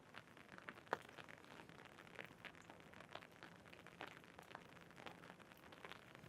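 Faint rain: irregular drops ticking on an umbrella overhead, with one sharper drop about a second in.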